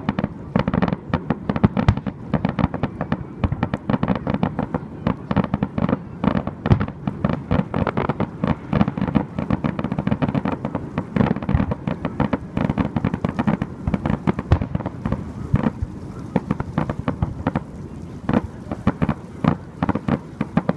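Fireworks going off in a rapid, continuous barrage of sharp bangs and crackles, many a second.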